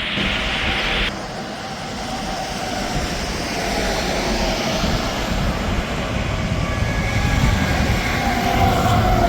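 Interstate highway traffic: trucks passing with engine drone and tyre noise, growing louder toward the end. A hiss stops abruptly about a second in.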